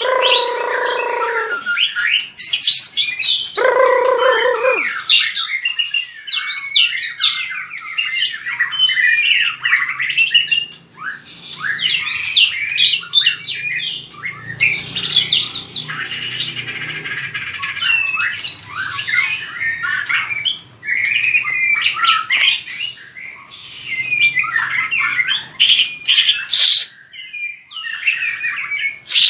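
White-rumped shama singing a rapid, varied run of whistled and chattering phrases, the kind of competitive song used to train other shamas. Two lower, harsher calls come in the first few seconds, and there is a brief pause near the end.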